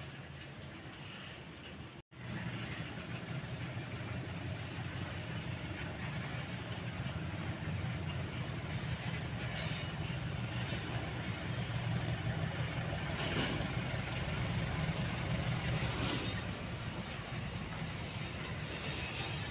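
Pertamina fuel tank wagons rolling slowly past during shunting, with the low steady running of a KAI CC 203 diesel-electric locomotive growing louder as it comes near. Several short higher-pitched noises come from the train in the second half.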